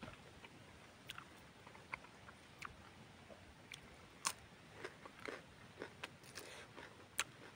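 Close mouth sounds of a person biting into and chewing a boiled winged bean (star bean) with rice: soft, sparse crunches and wet clicks at irregular intervals, the sharpest about four seconds in and again near the end.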